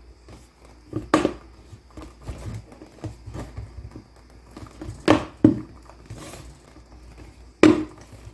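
Plastic parts of a food processor being handled and pushed back into place, with light rubbing and a few sharp knocks: one about a second in, two close together past the middle, and one near the end.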